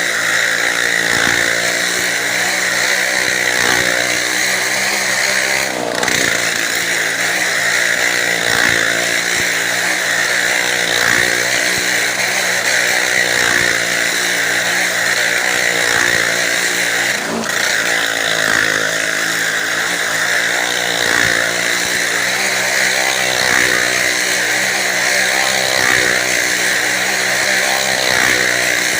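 Motorcycle engines running at steady high revs as the bikes circle the wall of a well-of-death drum, with two very brief breaks in the sound about six and seventeen seconds in.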